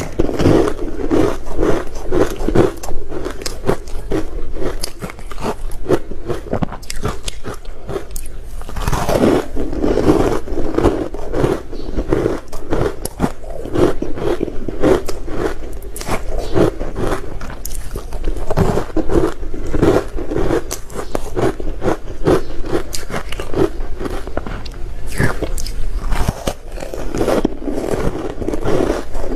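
Close-up crunching and chewing of ice, bite after bite, with a dense run of crackles as the ice breaks between the teeth.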